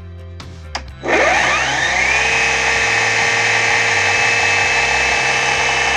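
Einhell GE-LC 18/25 Li cordless chainsaw switched on with a click: about a second in its electric motor and chain spin up with a rising whine, then run steadily at full speed, free-running and not cutting.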